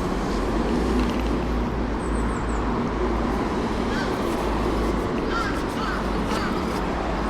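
Steady outdoor traffic noise with a low rumble, and a few short bird calls in the middle.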